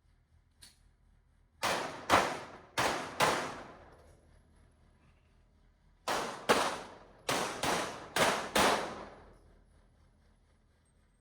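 Pistol shots fired in quick pairs, each with a ringing tail. There are four shots a couple of seconds in, then a string of about six more a few seconds later.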